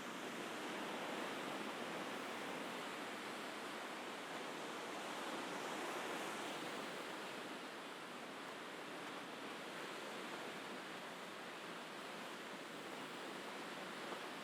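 Sea waves washing on the shore in a steady wash of surf that swells and eases gently.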